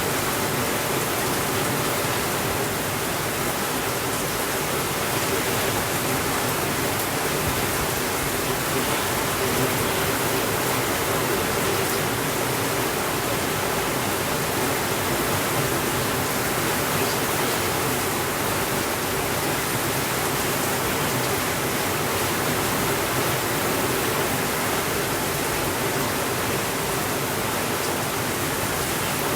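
Steady rainfall, an even hiss with no change in level and no thunder.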